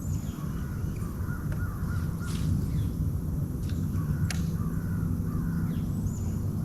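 A bird, possibly several, calling outdoors in runs of short, quick repeated notes, over a steady low rumble. A few sharp clicks come in the middle.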